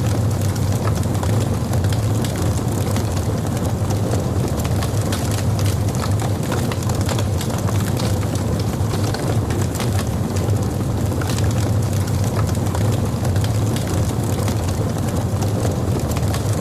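Wood logs burning in a fireplace: a steady low rumble of the fire with frequent small crackles and pops.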